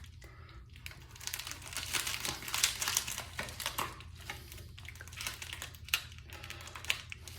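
Package wrapping crinkling and scratching in irregular strokes as a double-edge razor blade is worked through it to cut it open.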